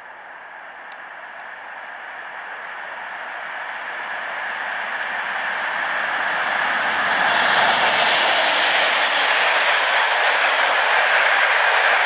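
Passenger train hauled by an EP07 electric locomotive approaching at speed. The running noise of its wheels on the rails grows steadily louder, then the coaches pass close by from about seven seconds in.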